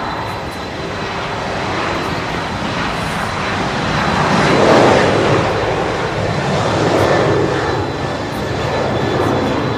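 Airplane engine noise as a plane passes, swelling to its loudest about halfway through, easing, then rising again briefly before fading.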